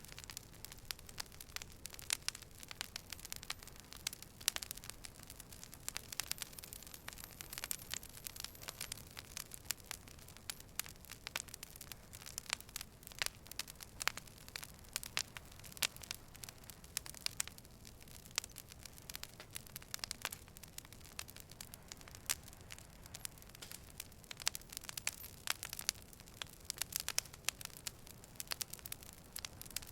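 Campfire crackling: irregular sharp pops and snaps over a soft steady hiss.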